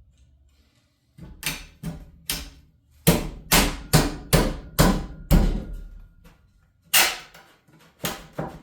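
Hammer striking a wooden wall stud to drive it into place between the top and bottom plates. There are a few lighter taps, then about six heavy blows at roughly two a second, and after a short pause a few more blows near the end.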